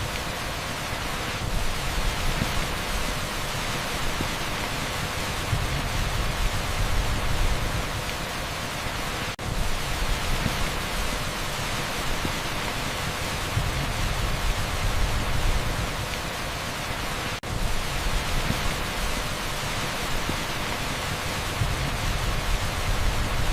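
Torrential rain pouring onto an asphalt street, a dense, steady hiss. The sound briefly drops out twice, about nine and seventeen seconds in.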